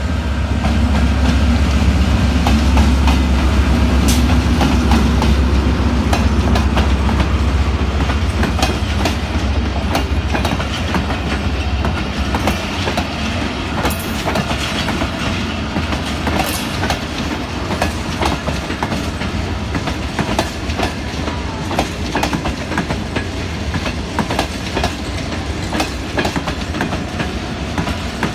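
Diesel locomotive passing close with a deep engine rumble, which eases after about twelve seconds as passenger coaches roll past with a steady clickety-clack of wheels over rail joints.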